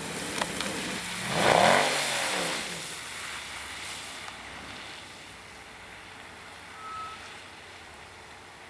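A Mercedes-AMG V8 car drives past on the track. Its engine note rises and then falls, loudest about a second and a half in, and it fades away after.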